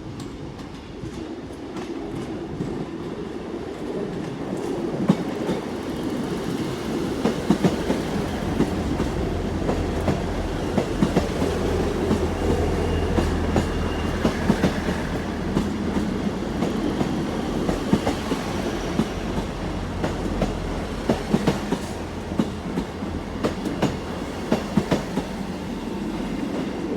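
A South Western Railway Class 159 diesel multiple unit pulls into the platform as a terminating train. Its underfloor diesel engines hum steadily, and its wheels click over the rail joints. The sound builds over the first few seconds as the train comes alongside.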